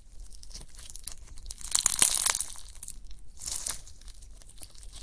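Slime being pressed and stretched by hand, giving off a dense run of crackling, crinkling pops. The crackling swells loudest about two seconds in and again around three and a half seconds.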